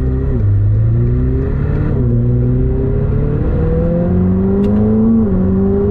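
McLaren 765LT's twin-turbo V8 accelerating, heard from inside the cabin: the engine note climbs slowly and drops sharply at upshifts about half a second, two seconds and five seconds in.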